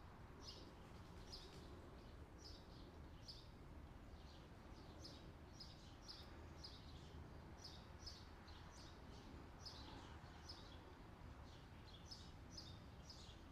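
Faint chirping of small birds: short, high calls, often in pairs, repeated about once or twice a second, over a low steady hum.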